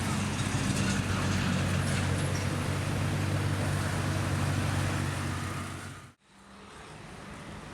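A car engine running steadily with a low hum amid street traffic noise; it cuts off abruptly about six seconds in, leaving quieter street noise.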